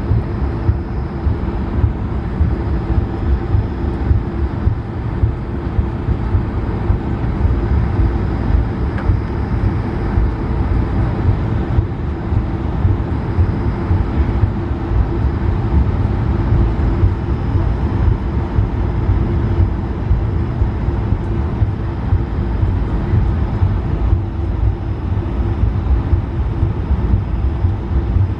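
Cabin noise inside an Airbus A220-300: the steady hum of its Pratt & Whitney PW1500G geared turbofans over a constant low rumble.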